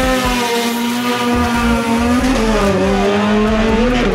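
Drag-racing car engines running at high revs near the start line, a loud, steady engine note whose pitch dips slightly about two seconds in.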